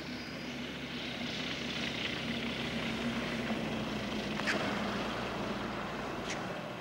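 Propeller-driven light aircraft engine droning in a steady tone, growing louder to a peak about two-thirds of the way through and then easing off as it passes. Two short sharp ticks come near the end.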